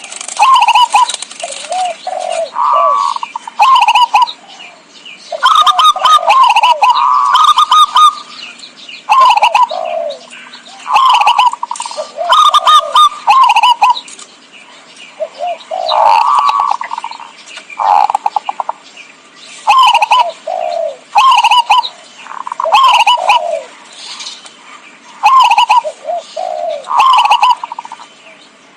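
Zebra doves (perkutut) cooing: a string of short, rolling coo phrases repeating every second or two, with higher chirping notes mixed in. This is a lure call for drawing in wild zebra doves.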